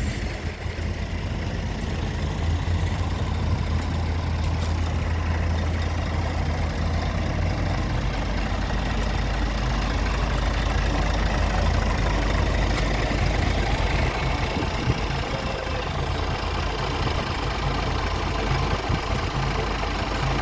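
Scania truck's diesel engine idling with a steady low rumble.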